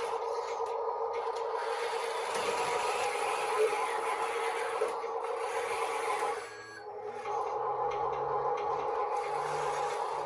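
Radio-controlled model excavator's hydraulic pump running with a steady whine, over dirt and gravel scraping as the machines dig and push. The whine drops briefly about two-thirds of the way through, then picks up again.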